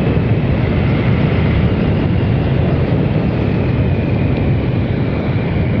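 Triumph Sprint RS motorcycle running steadily at road speed, its 955cc three-cylinder engine mixed with a heavy rush of wind on the rider's microphone.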